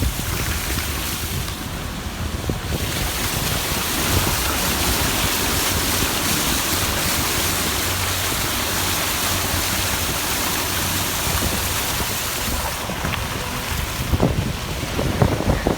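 Steady rushing noise of floodwater, with wind buffeting the microphone, and a few short knocks near the end.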